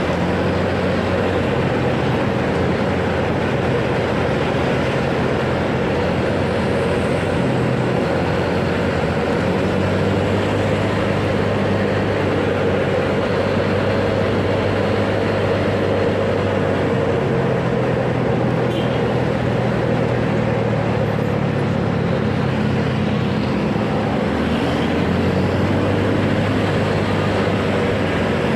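Motorcycle engine running while riding through traffic, its pitch stepping up and down every few seconds with changes in speed, over steady wind and road noise on the microphone.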